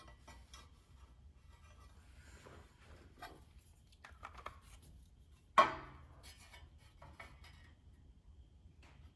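Small clicks and rustles of parts and tools being handled, with one sharp, loud knock about five and a half seconds in that rings briefly.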